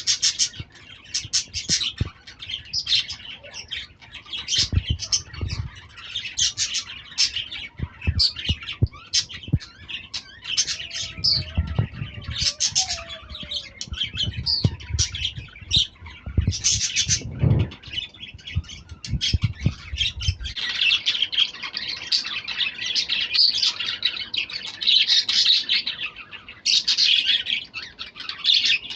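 A flock of lovebirds chattering nonstop with high-pitched chirps and squawks, growing denser in the last third. Scattered low knocks and thumps sound through the first two-thirds.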